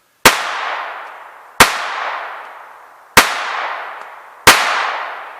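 Walther P22 .22 LR pistol fired four times at a steady pace, about one shot every second and a half, each sharp crack trailing off in a long echo. The pistol cycles without a jam on Federal Champion ammunition.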